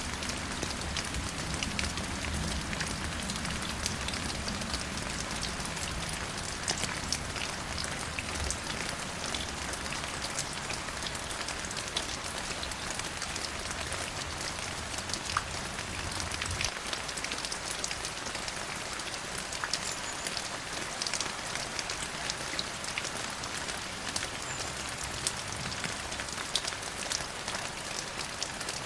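Steady rain falling, an even hiss dotted with many separate drop taps. A low rumble under the rain stops about two-thirds of the way through.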